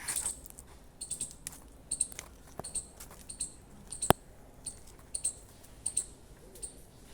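Short, high chirps from a small animal, repeating about every half second to a second, with one sharp click about four seconds in.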